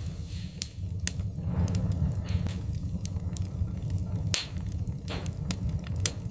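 Wood fire crackling in a fireplace: sharp pops and snaps at irregular intervals over a steady low rumble of the flames, with a couple of short hisses.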